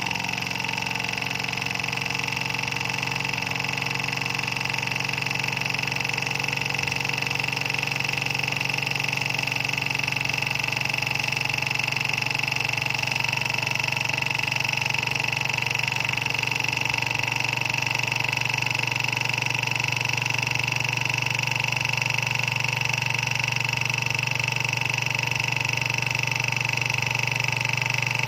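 Small model Stirling engine running steadily: an even mechanical whir with a constant high whine, growing a little louder over the first several seconds and then holding level.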